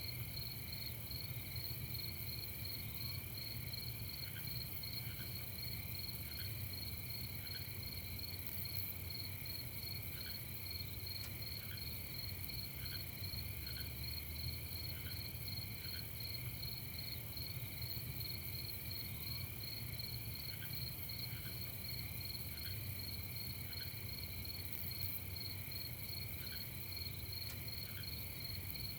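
Night insect chorus of crickets trilling without pause at several pitches. Short, faint, lower notes repeat about once a second underneath, over a steady low rumble.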